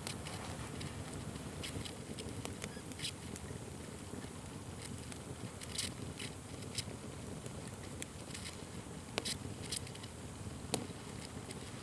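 Wood fire crackling and popping: scattered sharp snaps over a steady low rumble, with a few louder pops in the second half.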